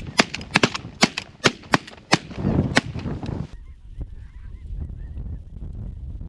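A rapid volley of shotgun shots from several hunters, about a dozen blasts in the first three and a half seconds, over snow geese calling. The shooting stops and the goose calls carry on faintly.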